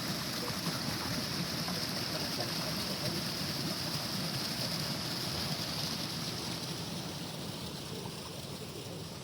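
Water of a small stream running steadily, growing fainter over the last couple of seconds.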